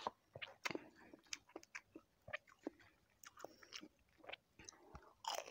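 A person chewing food close to the microphone: faint, irregular wet mouth clicks and small crunches.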